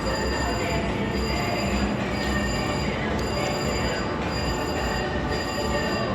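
Polar Highroller Lightning Wilds slot machine's electronic game sounds, high steady tones breaking off and returning about once a second, over a continuous din of casino floor noise.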